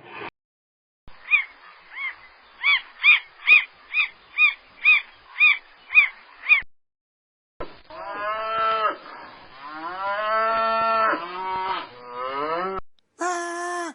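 Animal calls: a rapid series of short, pitched calls at about two to three a second, then, after a break, several longer calls that slide up and down in pitch.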